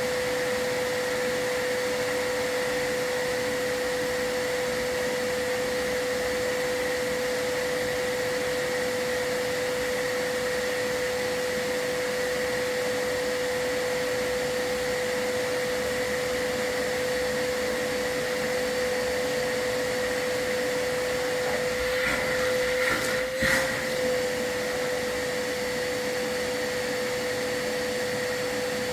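A chimney sweep's dust-collection vacuum running steadily with a constant motor whine. About 22 to 24 seconds in there are a few brief knocks and rattles.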